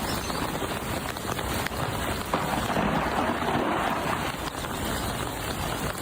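Steady rushing outdoor noise of wind, with rough low rumbling from wind on the microphone.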